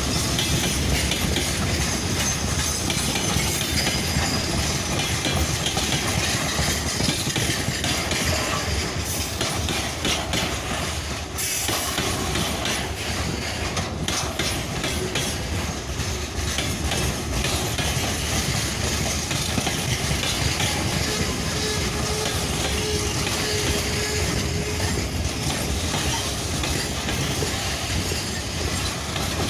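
Loaded freight train rolling past at close range, its wagons' wheels clattering steadily over the rail joints, with a faint thin tone about two-thirds of the way through.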